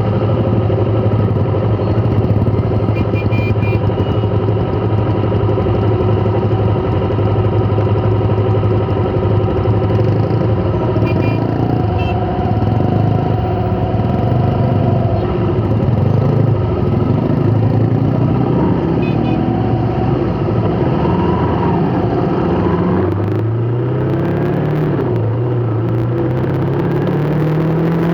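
Motor vehicle engine running steadily in traffic, then speeding up with a rising pitch over the last few seconds.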